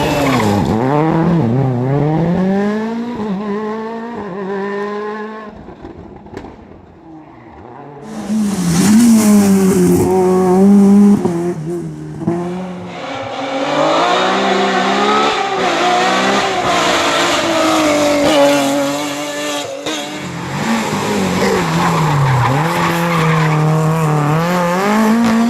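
Rally cars driven flat out: engines revving up and dropping back through gear changes, with tyre squeal. The sound fades for a couple of seconds about a quarter of the way in, then comes back suddenly with a loud rush of noise and more hard revving.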